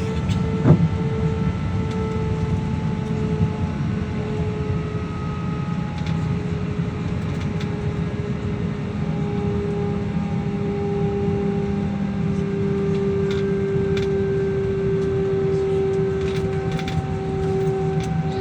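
Airliner engines running: a steady low rumble under a steady whine, with a second, higher whine joining about halfway through. A short thump comes under a second in.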